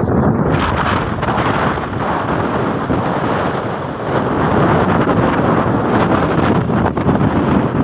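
Strong wind buffeting the microphone, loud and uneven, growing a little stronger about four seconds in.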